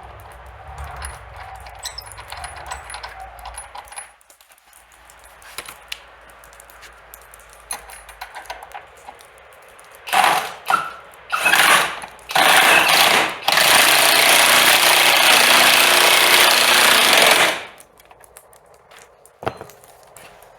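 A cordless power tool is run in three short bursts about ten seconds in, then held running for about four seconds before stopping.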